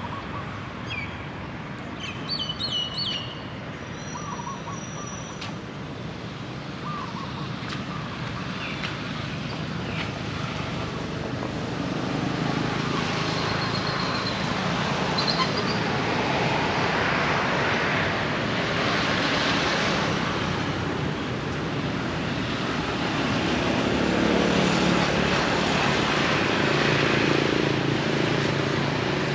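Birds giving short chirps and calls, mostly in the first few seconds, over a steady wash of road traffic that grows louder about halfway through.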